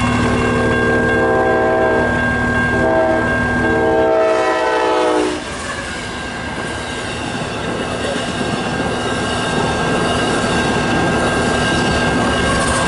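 Amtrak passenger train sounding its horn in two long blasts, the second dropping in pitch as the locomotive passes, then the train rushing by at speed with wheels clattering over the rails.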